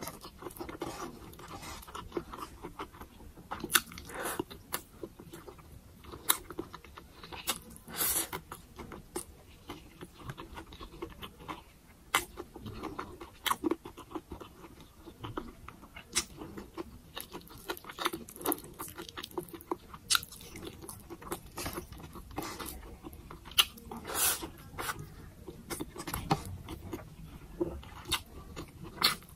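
Close-miked chewing of a mouthful of rice and glazed pork belly adobo eaten by hand, with some crunching and many irregular sharp wet mouth clicks.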